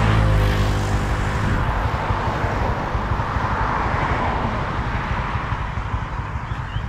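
Motor vehicle engine running, with a steady rumble of road noise; its pitched drone falls and fades over the first second and a half.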